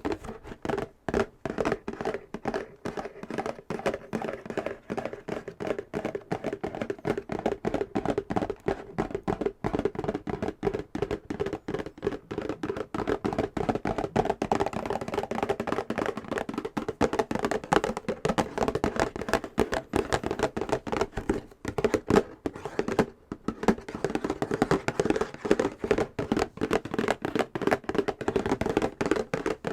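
Fast fingernail tapping on a box: a dense, continuous run of quick taps with a hollow ring.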